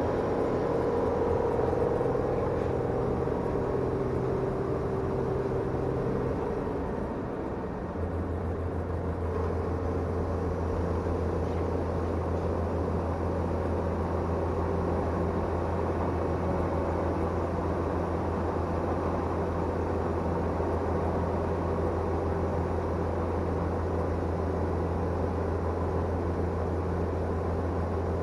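Tractor engine running steadily while under way. About seven seconds in, its note dips briefly, then settles at a lower pitch and holds there.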